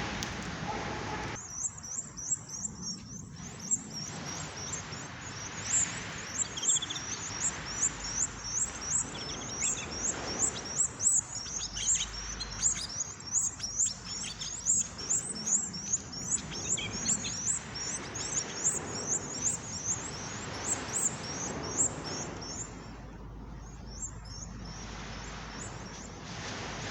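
Small caged birds chirping rapidly, a steady string of short, high chirps about two or three a second that mostly stops near the end.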